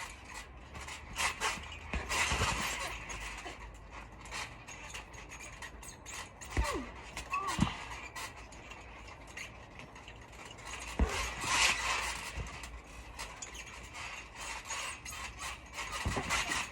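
Trampoline springs and frame creaking and squeaking under someone bouncing, with irregular clicks and knocks and two short falling squeaks about seven seconds in.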